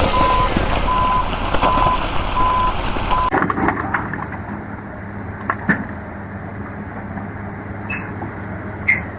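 A heavy vehicle's reversing alarm beeps about twice a second over loud engine and machinery noise. About three seconds in it cuts off abruptly to a quieter, steady engine hum with a few short squeaks.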